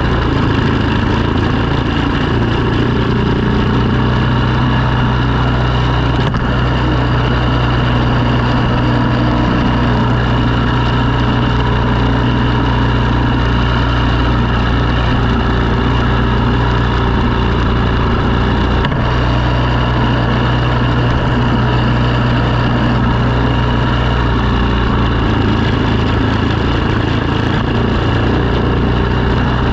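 Engine of snow-clearing equipment running steadily at an even speed throughout.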